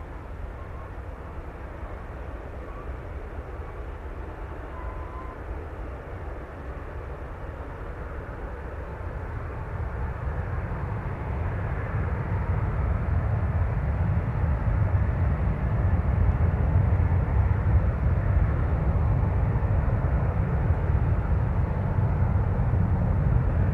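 Boeing 747's four jet engines at takeoff power: a low rumble that swells from about ten seconds in and then stays loud.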